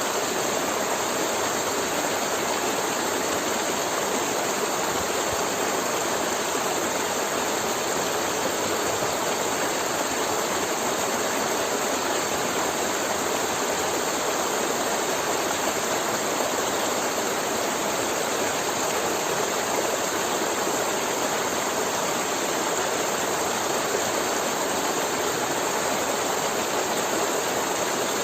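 River water flowing and gurgling over rocks, a steady rushing with no pauses.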